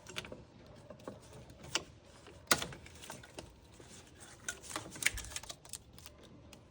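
Scattered light clicks and taps, the sharpest about two and a half seconds in and just after five seconds, from hands working free a zip-tied part in an engine bay.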